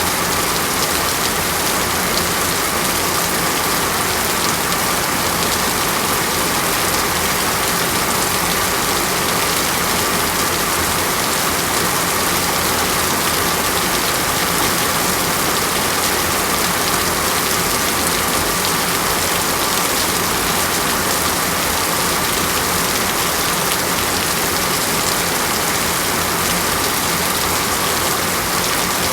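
Steady, dense rain falling on a surface, an even hiss of many fine drops that does not change.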